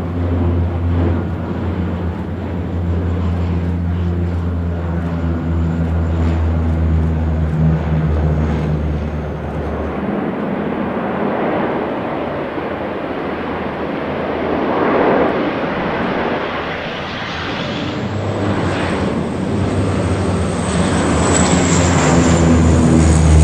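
CL-415 water bomber's turboprop engines running. A steady low propeller drone gives way about ten seconds in to a rushing noise, then a high turbine whine rises near the end as the drone comes back.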